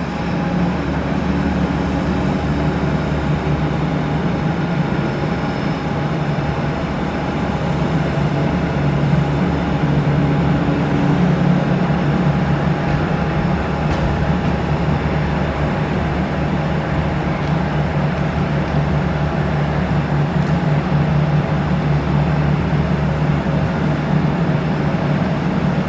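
Aircraft engines running at a steady level: an unbroken rumble with a constant low hum and a steady higher whine, neither rising nor falling.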